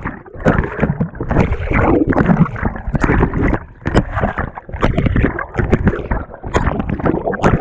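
Water and laundry churning and sloshing around the agitator of a GE top-loading washing machine, heard from a camera fixed to the agitator in the wash water. The sound surges and falls back about every second, with sharp knocks and clicks between.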